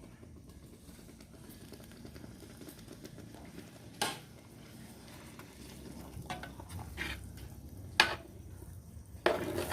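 Chicken broth cooking in a pot over a wood fire, with a low steady simmer and a spoon stirring and scraping, knocking sharply against the pot twice.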